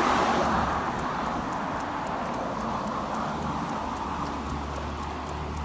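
Road traffic noise from a passing car, loudest at the start and easing off, with a low engine hum joining in the last couple of seconds.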